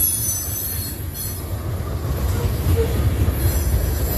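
Freight train cars rolling past with a steady low rumble, the wheels squealing high and shrill at the start, about a second in, and again near the end.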